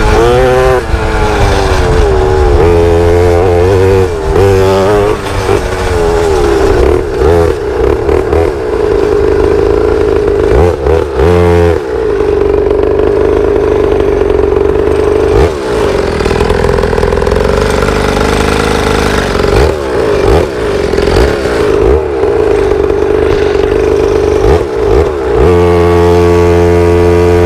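Pit bike engine being ridden: revs rise and fall with short throttle cuts, then hold a steady high pitch for about half the stretch, broken by a few brief dips, before dropping to lower revs near the end.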